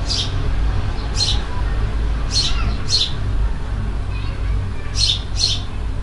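A small bird chirping repeatedly: six short, high chirps, some coming in quick pairs, over a low steady hum.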